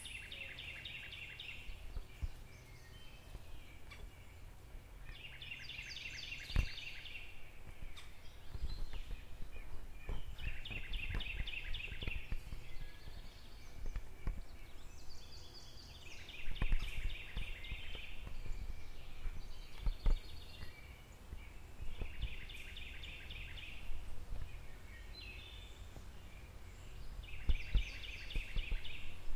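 A bird singing: a short phrase of rapid repeated notes, coming back about every five to six seconds. Under it, a steady low rumble and occasional short knocks.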